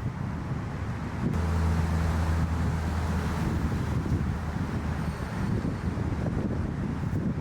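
An engine's low steady hum comes in about a second in and fades away after a few seconds, with wind buffeting the microphone.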